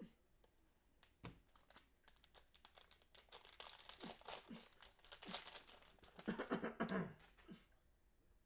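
Cellophane wrapper of a football trading-card cello pack being torn open and crinkled, a dense crackling that peaks between about two and seven seconds in, after a single knock about a second in.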